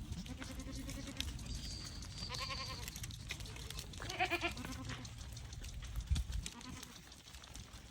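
Goats bleating: three separate wavering calls at different pitches, the loudest about four seconds in.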